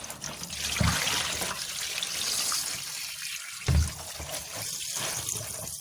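Tap water running into a kitchen sink as fresh sardines are rinsed under it one by one, with two dull knocks, the louder one near four seconds in.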